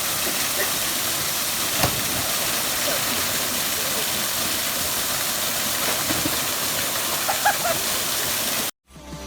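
Steady rushing roar of a waterfall, about 30 ft high, with faint voices briefly audible under it; the roar cuts off suddenly near the end.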